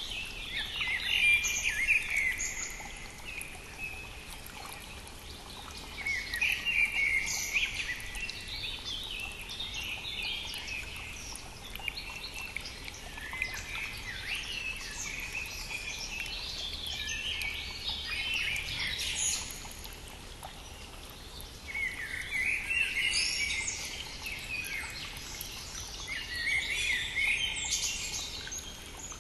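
Several wild songbirds singing in spring, in repeated bursts of chirps and trills, over the steady noise of a flowing stream.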